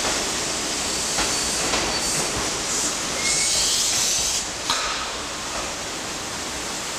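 Express electric train moving slowly alongside the platform under a station roof: a steady rumble of running noise with a few sharp clicks from the wheels. A burst of hiss comes about three seconds in and lasts about a second.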